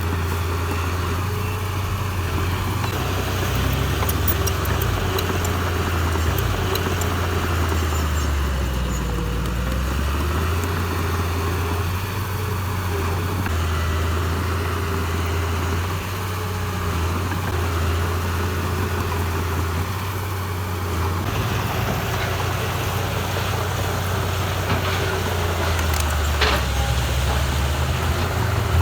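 Diesel engine of heavy construction machinery running under work, its low drone rising and falling in pitch several times as the load and throttle change. A single short knock sounds near the end.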